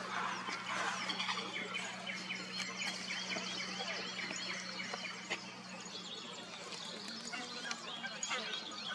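Many small songbirds chirping and singing at once, with a steady low hum underneath that fades about six seconds in.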